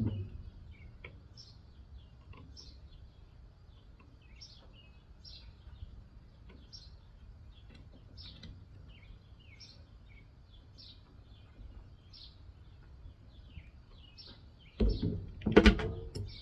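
Small birds chirping over and over in the background, with a few loud clattering knocks near the end as air-conditioner parts are handled during the teardown.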